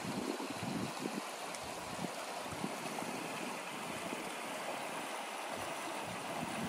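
Woodland stream running with a steady trickle and babble of water.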